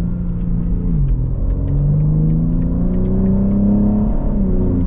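BMW G80 M3's twin-turbo inline-six with a single midpipe exhaust, accelerating, heard from inside the cabin. The engine note falls about a second in, climbs steadily, then falls again near the end.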